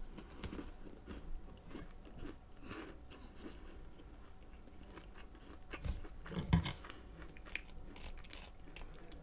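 Close-up chewing of a large soft chocolate chip cookie, with small wet mouth clicks, and a louder bite or chewing sound a bit past the middle.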